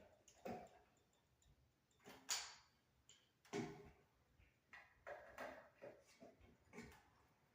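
Faint, scattered knocks and clicks of things being handled, irregularly spaced, the sharpest about two seconds in.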